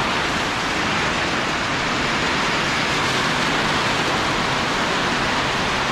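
Heavy rain pouring down in a rainstorm: a dense, steady hiss that does not let up.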